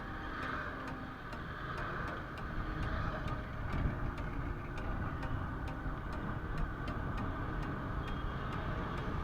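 Motorcycle running on the road, a steady low rumble that grows a little louder after about three seconds, with an even ticking of about three ticks a second over it.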